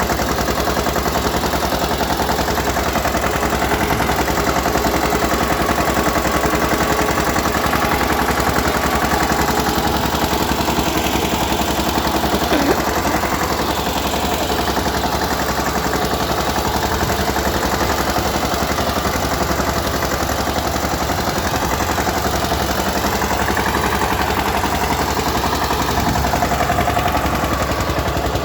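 Eicher tractor's diesel engine running steadily, a rapid, even chugging.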